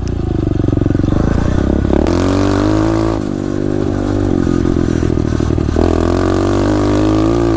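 SSR 125 pit bike's single-cylinder four-stroke engine running under way, its pitch rising and falling with the throttle: it drops back about three seconds in and climbs again near six seconds.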